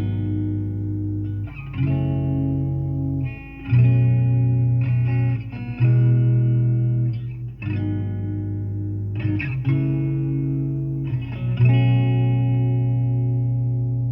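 Instrumental intro of a soft pop ballad played over a car stereo: sustained guitar chords that change about every two seconds over a heavy bass.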